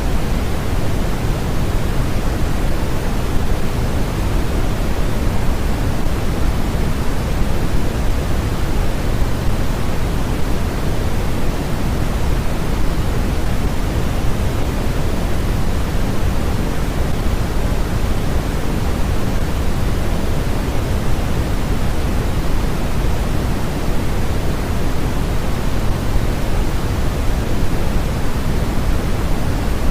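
Steady, unchanging sleep noise: an even hiss with most of its weight in the low end, with no breaks or other sounds.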